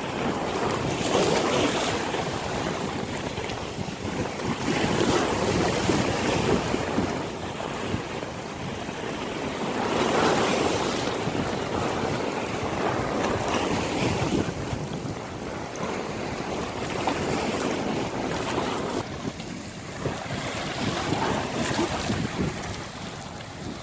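Ocean surf: waves breaking and washing in, swelling and easing every few seconds, with wind buffeting the microphone.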